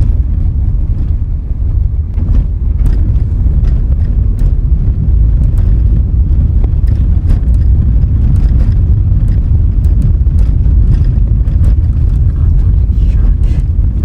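Steady, loud low rumble of a vehicle driving along a road, road and wind noise, with scattered faint ticks and knocks.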